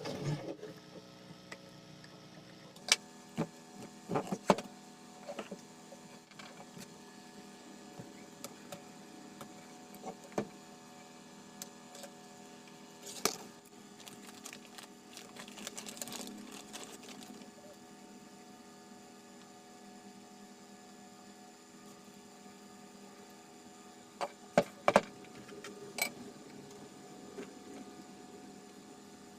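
Small clicks and knocks of a Bluetooth speaker and its parts being handled during repair, scattered and irregular with a cluster of sharper knocks near the end, over a faint steady electrical hum.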